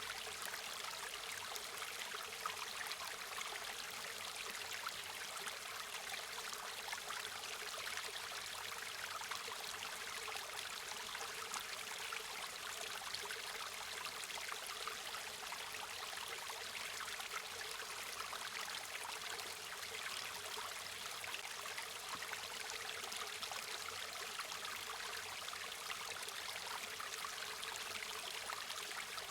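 Small river or stream flowing steadily over stones, a continuous bright rushing and trickling of water with no breaks.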